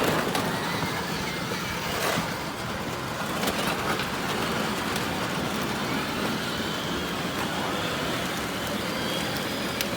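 Children's battery-powered ride-on cars driving: a steady rolling noise of hard wheels on pavement and small electric motors, with a few faint clicks.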